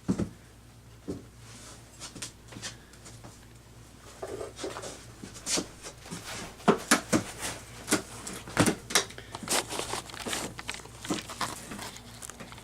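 Irregular knocks, clicks and scrapes of hive parts being handled while bees are transferred into an observation hive, getting busier about four seconds in, over a faint steady low hum.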